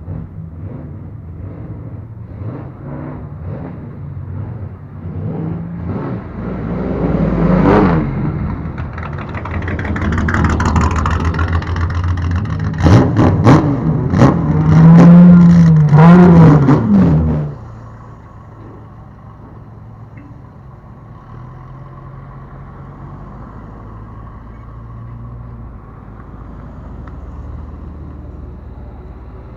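Car engine of a customised bosozoku-style car revved in short throttle blips, building to loud revving that rises and falls in pitch. About two-thirds of the way through the revving cuts off suddenly, leaving a steady low engine rumble.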